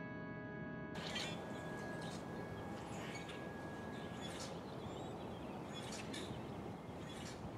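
A held music chord ends about a second in and gives way to outdoor ambience: a steady hiss with a few short bird chirps scattered through it, while one high note of the chord lingers until about four seconds in.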